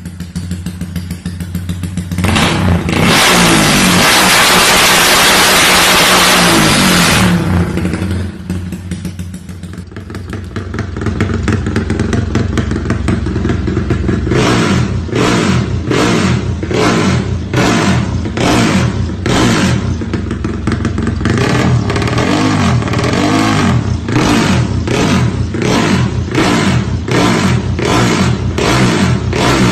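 Modified Yamaha Y15ZR motorcycle's 150cc single-cylinder engine running. It goes from an even idle to a loud rush of noise lasting about five seconds, then over the second half it is revved in quick repeated throttle blips, about one and a half a second.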